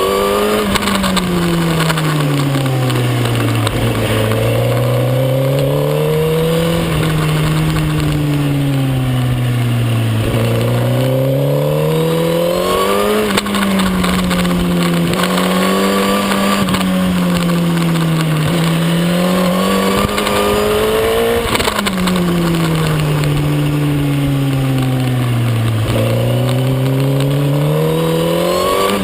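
Suzuki GSX-R1000 K9's inline-four engine at racing speed, revs climbing under acceleration and dropping away on braking several times over, with brief pitch steps at the gear changes.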